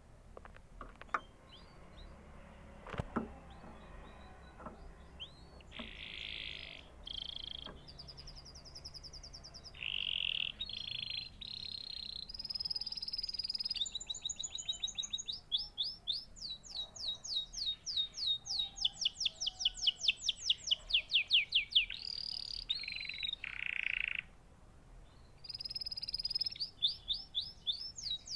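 Domestic canary singing: a few faint clicks over the first five seconds, then song phrases of buzzy rolls and long runs of fast repeated trill notes, with a brief break a few seconds before the end.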